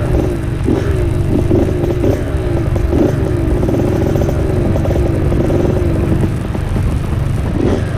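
Dirt bike engine running on a trail ride, its pitch rising and falling again and again with the throttle, over a heavy low rumble of wind on the microphone.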